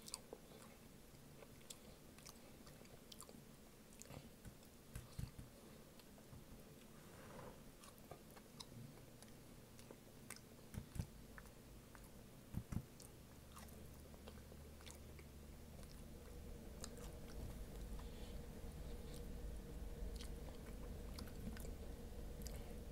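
Close-up chewing and biting of seasoned fries dipped in queso, with small wet mouth clicks and a few soft low thumps. A low steady hum comes in a little past halfway.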